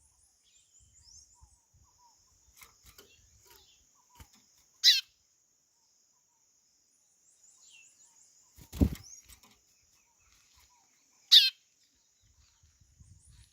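White-bellied seedeater (chorão) giving a short, loud, falling call twice, about five seconds in and again near the end, over a steady high-pitched background with faint chirps. A sharp thump comes about nine seconds in.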